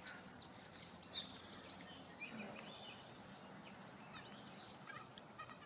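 Faint birdsong: scattered short chirps and calls from several birds, with a brief buzzy trill a little over a second in, over a steady outdoor hiss.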